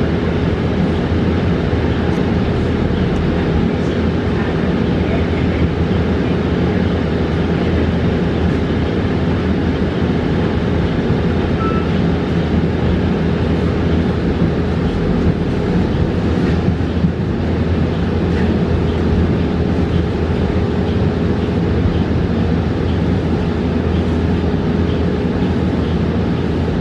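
Cabin of a 2022 New Flyer XE40 battery-electric bus under way: steady road and tyre noise with a thin, steady tone running underneath.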